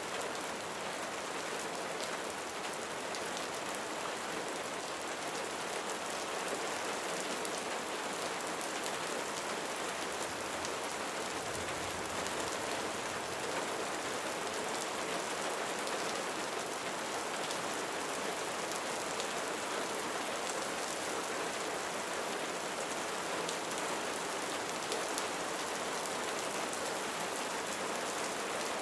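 Steady rain falling on a roof, an even hiss of many drops. A faint low rumble comes in briefly about twelve seconds in.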